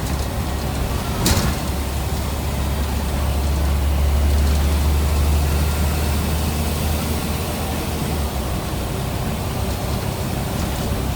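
Scania N94UB single-deck bus's diesel engine running, its low rumble building from about three seconds in and easing off about eight seconds in, with one sharp knock about a second in.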